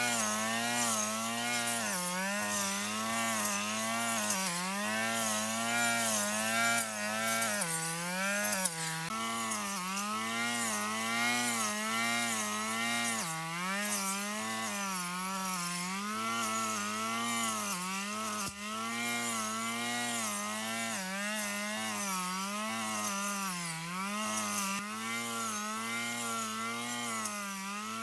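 Small lawn mower engine running, its pitch wavering up and down about once a second.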